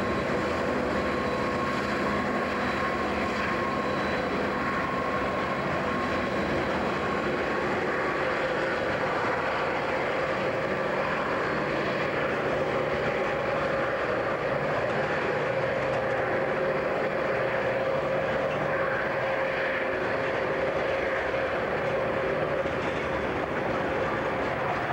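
CSX diesel freight train running, a steady drone from its locomotives with a held engine tone throughout.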